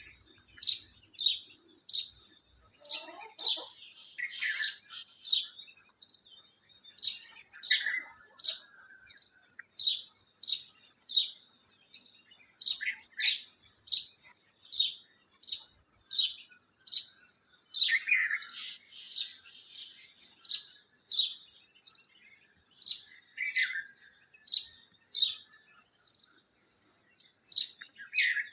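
Small birds chirping: short, high, falling chirps repeat about one and a half times a second, with now and then a louder, lower call, over a steady high-pitched drone.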